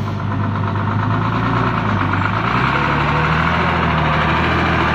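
Six-cylinder Hino diesel truck engine working under load as the truck strains to pull out of deep mud. It runs steadily, its revs rise about halfway through and hold, then begin to ease near the end.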